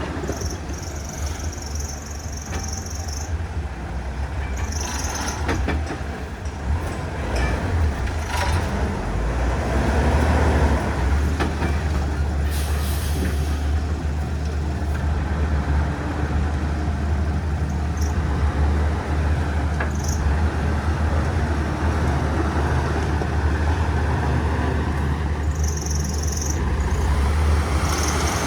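Diesel engines of heavy earthmoving machinery running steadily with a deep rumble. Short high hissing bursts come a few times, near the start, about five seconds in and near the end.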